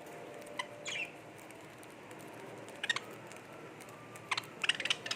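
Budgie pecking and cracking seed: short dry clicks in quick clusters, with a brief high chirp about a second in.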